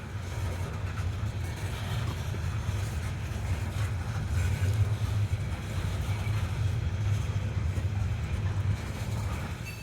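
A coal train's cars rolling past with a steady low rumble, heard from inside a vehicle.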